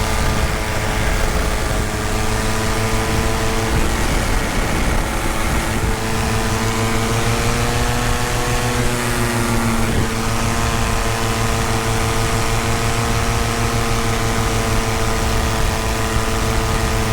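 Tandem paramotor engine and propeller running steadily in flight. The pitch rises slightly about eight seconds in and settles back a couple of seconds later with a small throttle change.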